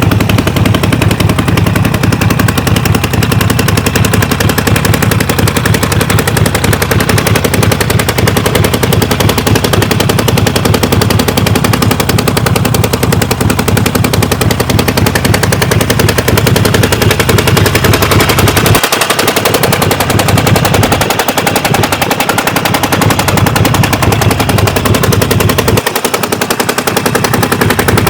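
Harley-Davidson XL 1200 Nightster's air-cooled 1200 cc V-twin engine running, loud, with a fast, uneven train of exhaust pulses.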